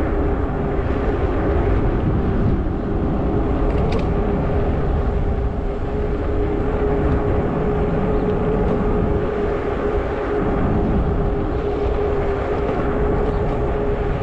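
Riding noise from a Zota Zephyr fat-tire e-bike under way: a steady hum holding one pitch, under wind rumbling on the microphone.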